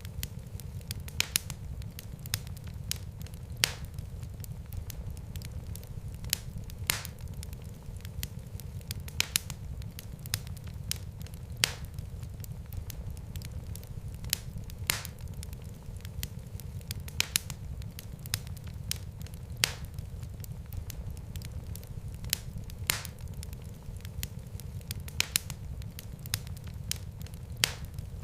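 Wood fire in a fireplace crackling and popping at irregular intervals, a few pops sharper than the rest, over a steady low rumble of the flames.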